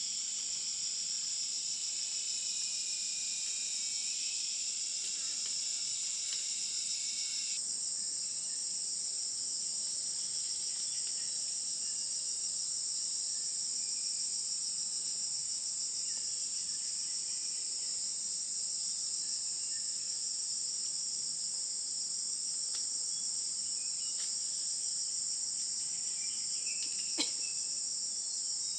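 Steady, high-pitched drone of many insects chirring in the forest. A lower layer of insect sound stops abruptly about seven seconds in, and there is a single sharp click near the end.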